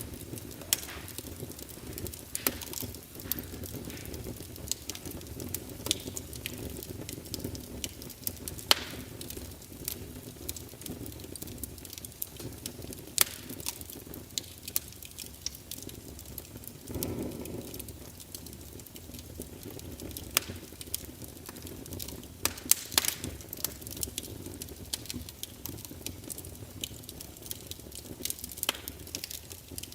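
Crackling wood fire: scattered sharp pops and snaps over a low steady rumble, with a brief swell a little past halfway.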